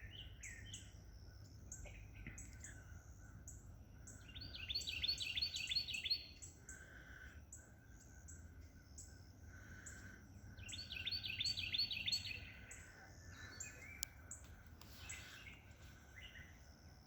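Wild songbirds singing, with scattered high chirps throughout and twice a louder, fast trilled song phrase about a second and a half long, some six seconds apart.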